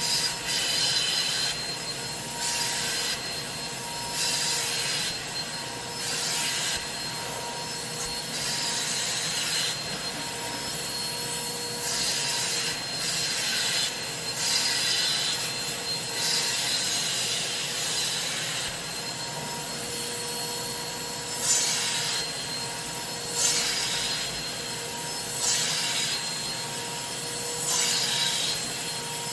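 Cleaning tool worked back and forth over fabric in repeated rubbing strokes, roughly one every second or two, over the steady hum of a running machine motor.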